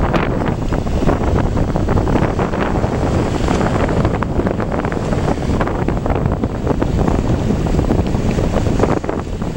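Strong wind buffeting the microphone over the steady wash of waves and water. The noise is loud and unbroken, its level rippling with the gusts.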